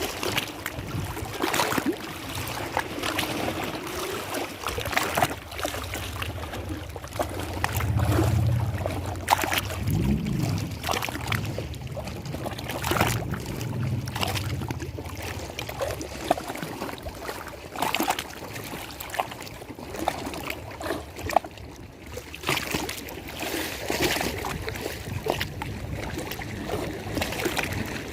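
Water lapping and splashing in quick, irregular small slaps over a steady wash. A low rumble swells in for several seconds in the middle.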